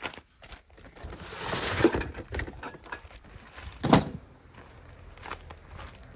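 A swell of rushing noise a little past a second in, then one sharp knock about four seconds in, with scattered light clicks and taps throughout.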